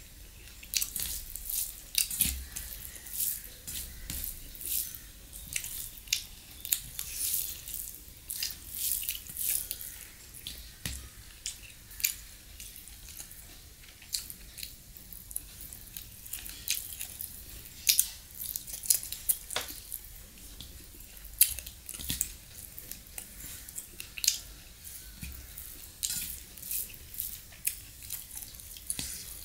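Close-miked eating sounds: a man chewing mouthfuls of rice and chicken curry, with irregular sharp wet clicks and lip smacks, and his fingers squishing and mixing the rice in a steel plate.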